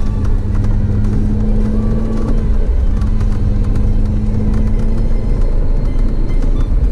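Audi TT RS's turbocharged five-cylinder engine running at steady revs, heard from inside the cabin as a constant drone over low road rumble. The drone breaks briefly about two and a half seconds in and drops away a little after five seconds.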